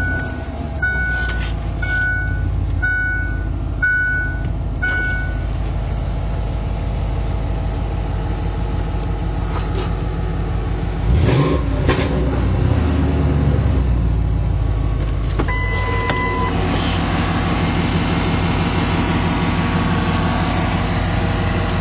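Ford F-150 pickup with Flowmaster Super 44 mufflers running while driving, heard from inside the cab. A dashboard warning chime beeps six times, about once a second, at the start. About halfway through the engine revs up and falls back, and a single longer beep sounds about three-quarters of the way in.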